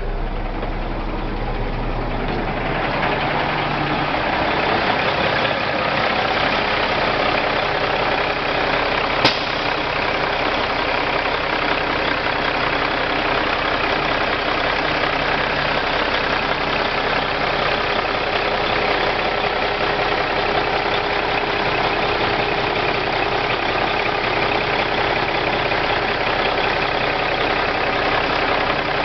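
Cummins diesel engine of a 2006 International 9400 truck idling steadily, with one sharp click about nine seconds in.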